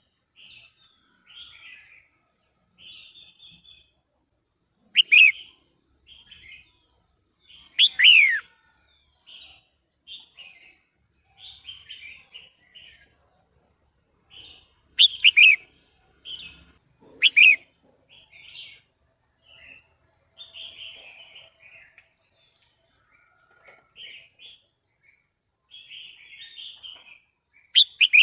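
Female red-whiskered bulbul calling: a run of short, high chirps broken by loud, sharp downward-sweeping calls about five and eight seconds in, twice between fifteen and eighteen seconds, and again at the end.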